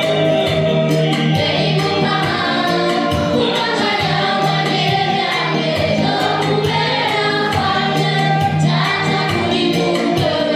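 Gospel music: a choir singing over sustained bass notes and a steady, quick percussion beat.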